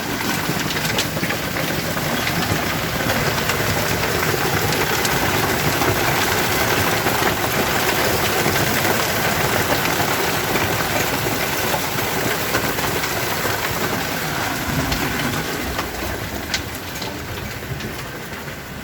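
Heavy hail coming down in a steady, dense rush of impacts, with sharper single hailstone hits standing out now and then; it eases a little over the last few seconds.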